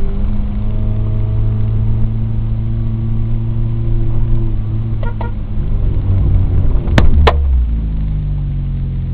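Suzuki Samurai's engine running as the small 4x4 drives along sand, its note rising a little over the first few seconds and then easing off, with two sharp knocks about seven seconds in.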